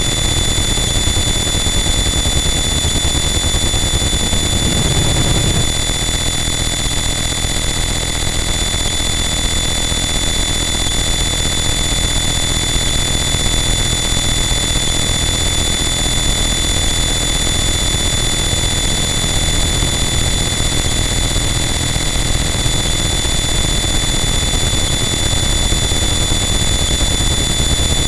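Harsh noise wall: a dense, unchanging wall of loud distorted noise with a few steady high-pitched tones held within it, and a brief low swell about five seconds in.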